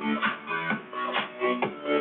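Music played through a Volkswagen Voyage's car sound system: plucked-string notes over a steady beat of about two hits a second.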